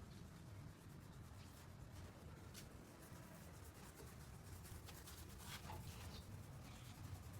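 Near silence: a faint low hum with a few soft scrapes and ticks.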